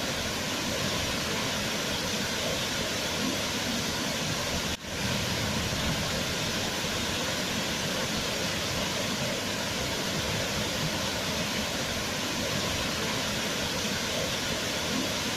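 Waterfall: a steady rush of falling water, broken by a momentary drop in level about five seconds in.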